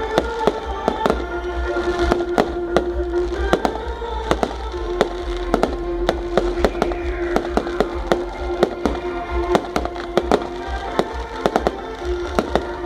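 Fireworks going off in rapid, irregular sharp cracks and bangs, over music with a long held note.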